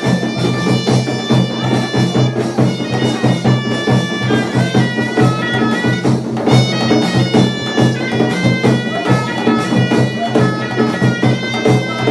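Moroccan Aissawa music: ghaita shawms playing a shifting melody with a steady low drone, over a pulsing drum beat.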